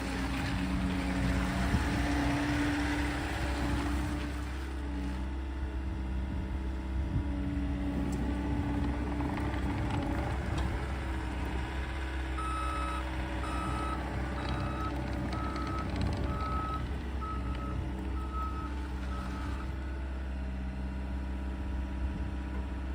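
Bobcat T66 compact track loader's diesel engine running steadily, with its backup alarm beeping about once a second for several seconds partway through as the machine reverses.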